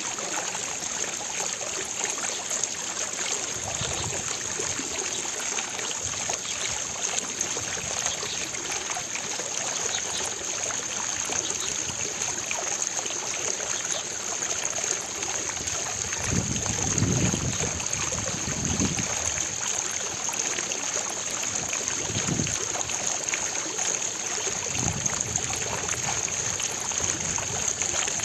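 Fountain water splashing and falling steadily, with a few brief low rumbles, the biggest a little past halfway.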